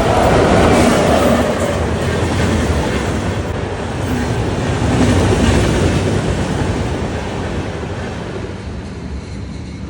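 Train passing close by at speed: a loud rushing rumble of wheels on rail, loudest about a second in and again around five seconds, easing off near the end.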